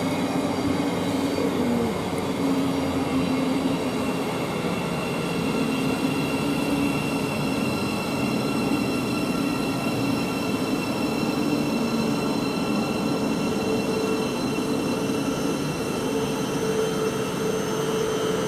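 Thameslink Class 700 electric multiple unit at the platform: a steady electric hum with several even, high whining tones.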